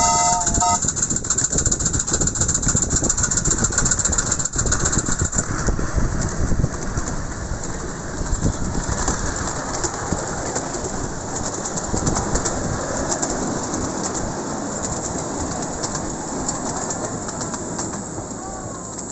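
Miniature steam locomotive's whistle, several notes sounding together, cutting off just under a second in; then the train running along the track with steady rumble and wheel clatter, gradually getting quieter.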